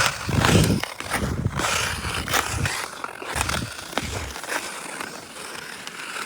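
Ice skate blades scraping and gliding over natural ice, with sharp clicks and scrapes from the strides. Low gusts of wind buffet the phone's microphone during the first four seconds.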